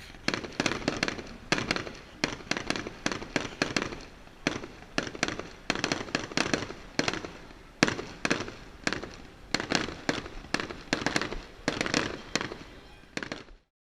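Fireworks bursting in quick succession: clusters of sharp cracks and bangs come several times a second without a break, then the sound cuts off abruptly near the end.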